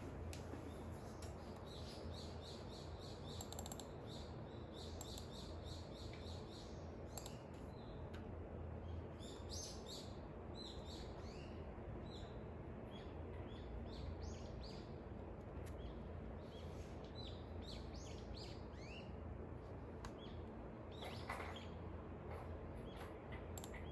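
Dawn birdsong: several small birds chirping, with quick runs of repeated high notes and short falling calls, over a steady low background hiss. A brief scratchy sound about three-quarters of the way through.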